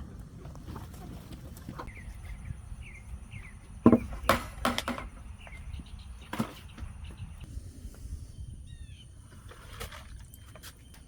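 A few sharp knocks and clatters, a cluster about four seconds in and one more near six and a half seconds, over a low steady rumble, with a few faint chirps.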